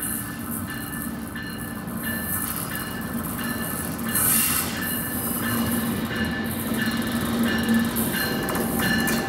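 Amtrak passenger train led by an ACS-64 electric locomotive approaching along the track, its steady hum growing louder as it nears. Short high ringing tones repeat over it, and there is a brief hiss about four seconds in.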